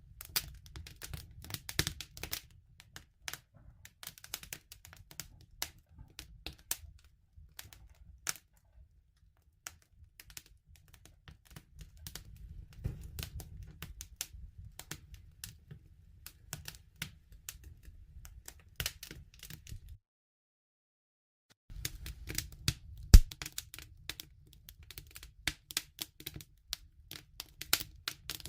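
Campfire crackling: irregular pops and snaps over a low rumble from the burning wood. About two-thirds of the way through it cuts to dead silence for a couple of seconds, then resumes with one loud pop.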